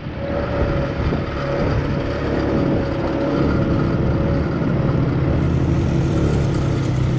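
ATV engine running at a steady pace.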